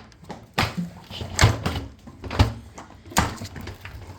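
Four sharp knocks and clunks of hard plastic parts being handled and fitted together, the middle two with a duller thud.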